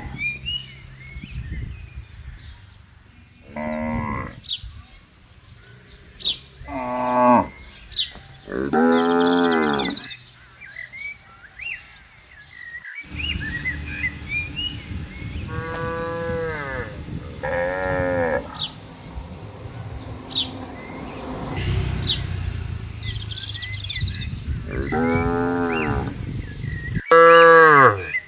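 Cattle mooing: about seven separate moos of a second or so each, spread through, the loudest near the end.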